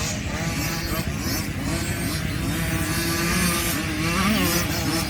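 Several 50cc two-stroke motocross bikes racing, their engines revving up and down and overlapping.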